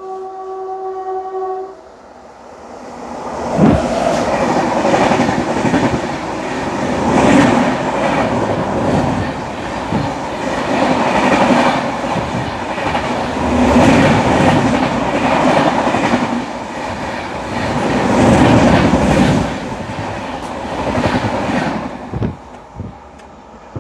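Mangalore–Santragachi Vivek Express passing close by on the adjacent track. A train horn sounds steadily for under two seconds. Then the train rushes past with loud wheel clatter over the rail joints, swelling and dipping every few seconds, for about twenty seconds before fading near the end.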